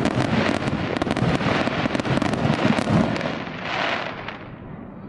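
Dense fireworks barrage: many rapid overlapping bangs and crackles for about three seconds, then thinning out and fading near the end.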